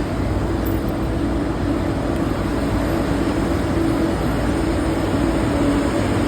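Steady running noise of a moving vehicle heard from inside, a low rumble with a constant hum.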